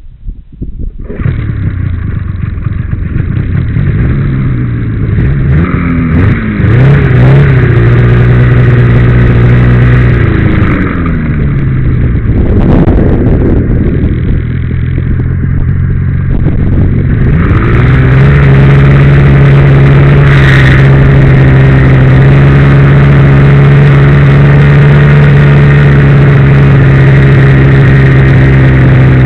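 Ski-Doo Blizzard MX snowmobile's two-stroke engine catching about a second in, revved up and down a few times, then running steadily at a raised idle from about two-thirds of the way through.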